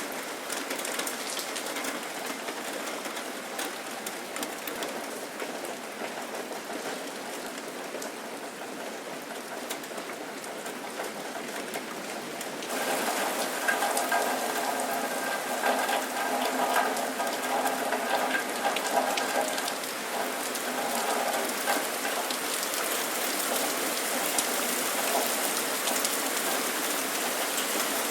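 Steady rain falling and pattering on surfaces, full of small drop ticks. About halfway through it steps up louder and fuller.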